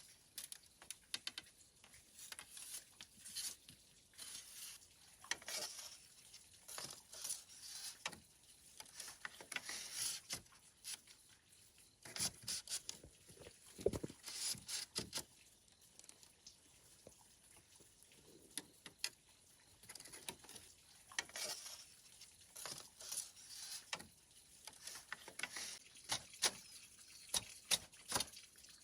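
Irregular light clicks, taps and rustles of hands working with small hard objects, with one heavier knock about halfway through.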